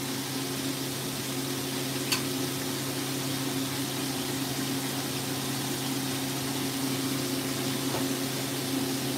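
Chicken pieces frying in oil that has run too hot, with the burner switched off to let it cool: a steady sizzle over a steady low hum. One short click about two seconds in.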